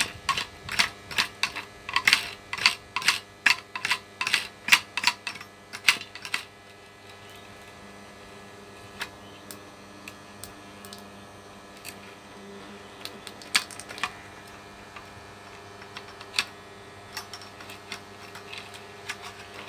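Vacuum cleaner motor being run to burn out its field windings: a steady electrical hum under sharp crackling snaps, two or three a second for about the first six seconds, then only an occasional snap.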